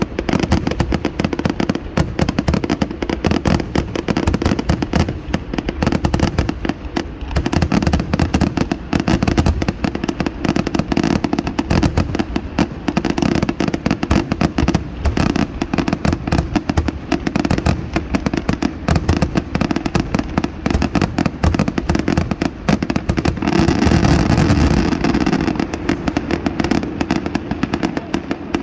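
Fireworks going off in a dense, unbroken barrage of rapid bangs and crackles, with a stretch of continuous crackling a little over 23 seconds in.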